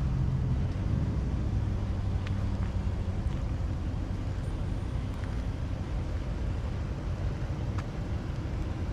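Dodge Charger R/T's 5.7 Hemi V8 idling steadily through a straight-piped exhaust with its mufflers deleted, a low, even rumble.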